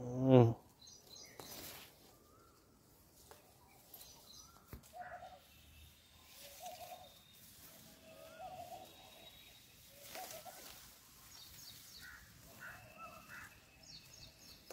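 Several birds calling faintly: high chirps and short, repeated lower notes with small up-and-down glides, spread through the whole stretch. A few soft knocks are heard now and then.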